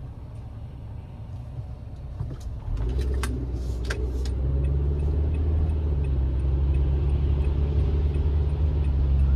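Car being driven, heard from inside the cabin: a steady low engine and road rumble that grows louder about three seconds in as the car picks up speed, with a few light clicks soon after.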